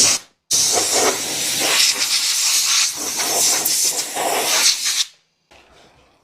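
A pressurised jet hissing: a short burst, then a steady hiss for about four and a half seconds that cuts off suddenly.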